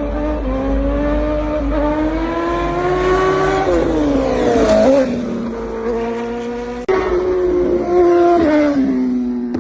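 High-revving vehicle engine. Its pitch climbs steadily for a few seconds and then drops away. After an abrupt break about seven seconds in, another engine note starts high and falls.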